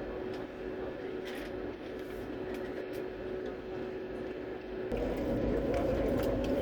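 An airliner's engines heard from inside the cabin during takeoff: a steady hum with a constant tone. About five seconds in, the sound steps up louder, with a deeper rumble and a higher tone.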